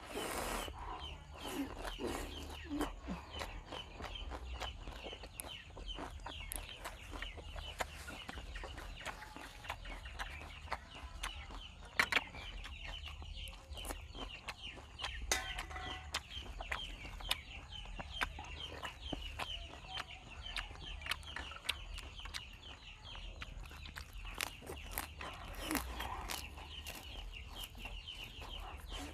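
Close-miked chewing of lettuce-wrapped bites of meat: crunching fresh leaves and wet mouth clicks, with one sharp click about twelve seconds in. Under it runs a steady background of rapid, high chirping calls.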